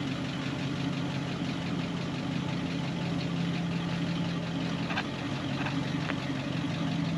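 A vehicle engine idling steadily, with a low, even hum and a couple of faint ticks partway through.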